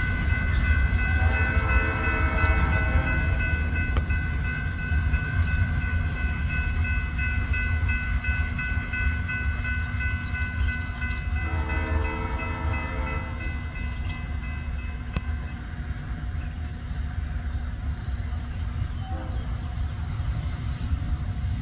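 Freight train's last cars rolling away with a steady low rumble. The distant locomotive horn sounds three times, each blast about two seconds long, roughly a second in, midway, and near the end.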